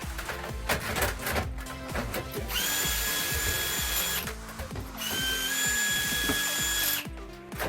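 Electric power drill running in two bursts of about one and a half to two seconds each, a steady high whine, over background music.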